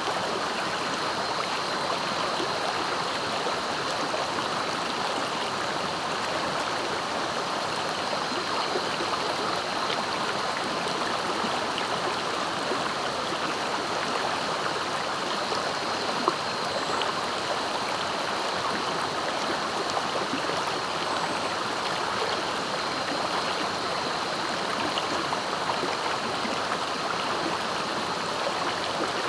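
Swift, clear-water river rushing steadily over its bed, an even, unbroken flow sound.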